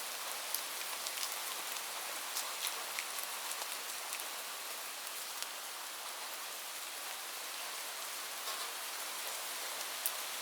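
Steady rain falling: an even hiss with many sharp, scattered drop taps close by. There is no thunder.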